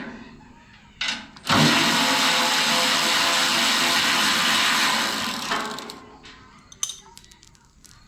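Power drill running in one loud, steady burst of about four seconds after a brief blip, then winding down.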